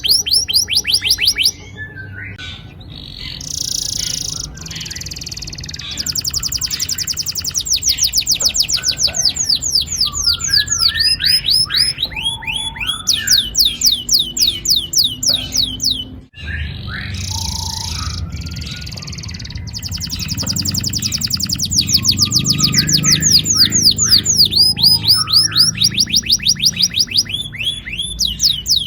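Domestic canary singing long, rapid rolls of quickly repeated falling notes in several runs with short pauses. The song cuts out briefly about sixteen seconds in.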